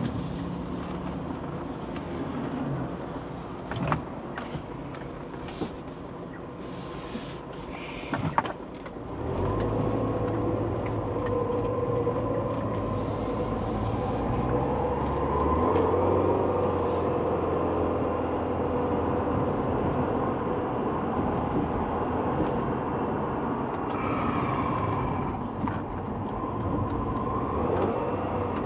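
2010 Subaru Legacy making a grinding noise from the brakes, which the owner says is not coming from the pads or rotors. There are a couple of knocks in the first few seconds, and the noise grows louder and steadier from about ten seconds in, with slowly rising and falling tones.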